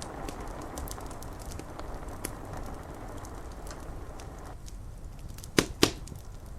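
Wood fire crackling with scattered small snaps and two loud pops in quick succession near the end. A steady rain hiss under it cuts off abruptly about four and a half seconds in.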